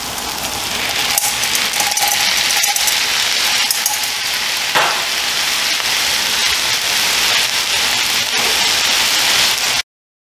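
Meat, peppers and onions sizzling on a hot flat-top griddle, the sizzle growing louder about a second in as canned meat is added, with scattered clicks and a sharp knock or scrape of metal utensils. The sound stops abruptly just before the end.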